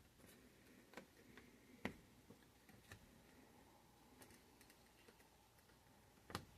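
Faint, scattered clicks and taps of small plastic model-kit parts being handled and pressed into place as mud flaps are fitted to a scale model truck, the sharpest click near the end.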